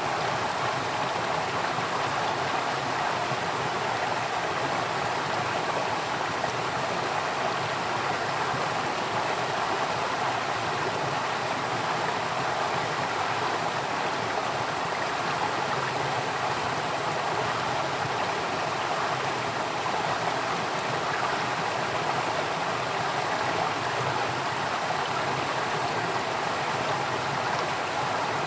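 Flowing water running steadily, a constant rushing with no breaks.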